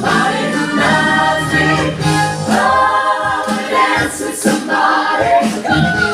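Stage show music with a group of voices singing together over a backing track.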